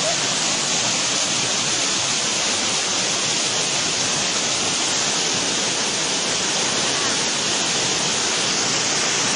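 Waterfall: a steady, unbroken rush of falling water, with its hiss strongest in the high range.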